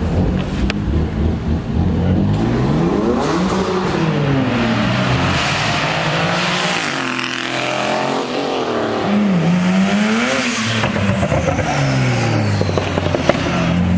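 Sports car engines revving and accelerating past, the pitch climbing and dropping several times as they pull through the gears.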